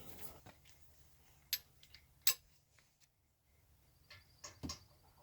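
A handful of sharp, irregular metallic clicks and clinks from hand tools being handled, the loudest about two seconds in and a quick cluster near the end.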